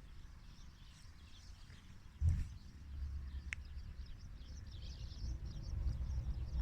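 Outdoor rural ambience with small birds chirping and a low rumble on the microphone, and a single thump a little over two seconds in.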